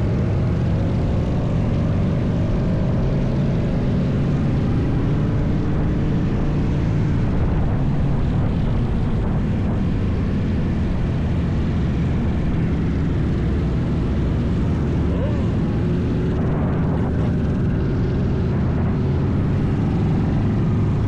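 Steady wind and road noise while riding a motorbike at speed, heavy in the lows. Faint engine or motor tones rise and fall now and then.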